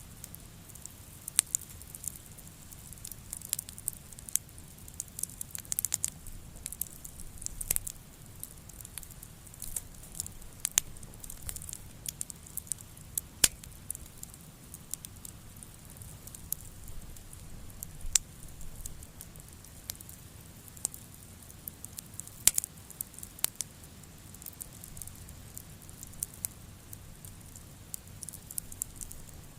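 Wood fire crackling, with sharp pops and snaps at irregular intervals, over a steady patter of rain.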